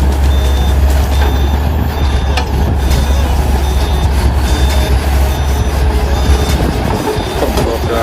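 A heavy vehicle's reversing alarm beeping steadily, a short high beep about once every 0.8 seconds, over a loud low engine rumble that drops away near the end.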